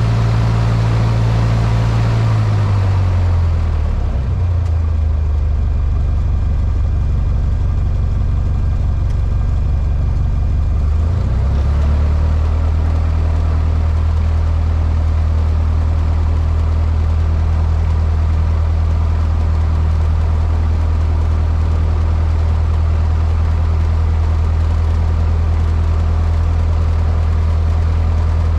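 Cessna 152's Lycoming O-235 four-cylinder piston engine running loud and steady. A few seconds in its pitch drops as power is pulled back, and after a brief wobble it holds at the lower power setting.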